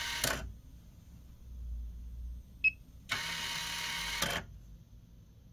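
HM-122 micro Vickers hardness tester's motor-driven mechanism turning: a whir that ends with a click shortly after the start, then a short beep, then about a second and a quarter more of whirring that also ends in a click. The mechanism is running normally after repair.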